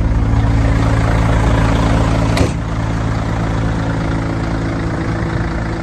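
Mercedes-Benz Actros 2532 truck's diesel engine idling steadily, with a single sharp click about two and a half seconds in, after which the engine sound is slightly quieter.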